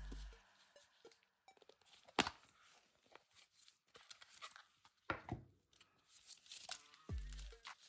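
Packaging being handled and torn open, with crinkling and a sharp snap about two seconds in and another about five seconds in. Background music stops at the start and comes back near the end.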